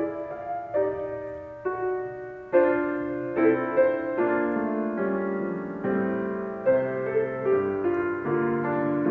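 Piano playing a gentle instrumental interlude between sung verses of a Christmas lullaby, with chords and melody notes struck about once a second and left to ring.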